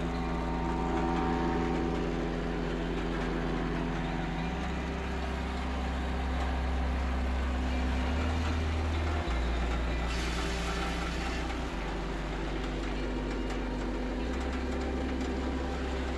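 Heavy wood-processing machinery running steadily, a low engine drone whose hum shifts in pitch every few seconds.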